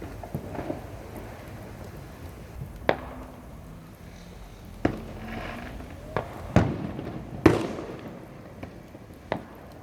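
Fireworks going off: a run of sharp bangs at irregular intervals over a low rumble, the loudest about seven and a half seconds in.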